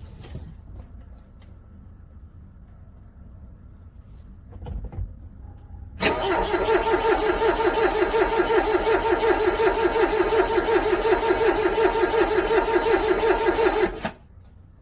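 Cold car engine cranking on its starter motor with a fast, even pulse for about eight seconds, struggling and failing to catch, then the cranking stops abruptly.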